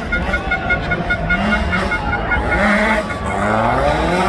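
Rally car engine revving hard and changing up through the gears, its pitch climbing and dropping back several times.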